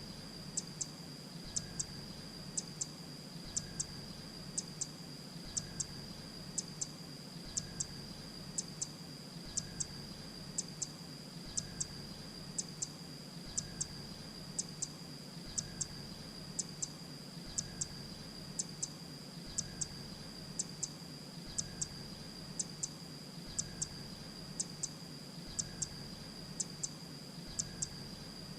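Grey-breasted prinia calling: sharp, high double notes repeated evenly about once a second, over a steady high-pitched whine.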